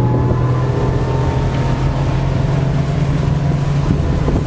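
Mercury 200 hp V8 ProXS outboard running hard at full throttle during a take-off, its engine note holding steady, with a rush of wind and water.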